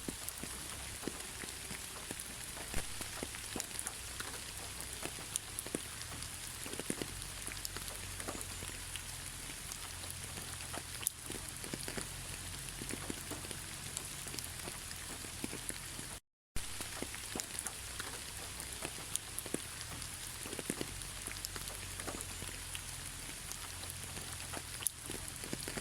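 Steady rainfall with many individual raindrops ticking. The sound cuts out for a split second about two-thirds of the way through, then resumes.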